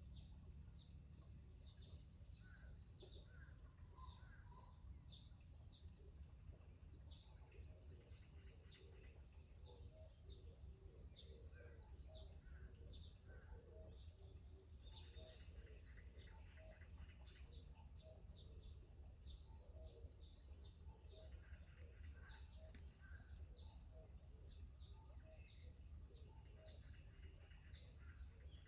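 Faint birdsong: many short, high chirps from small birds, with fainter lower notes among them, over a low steady hum.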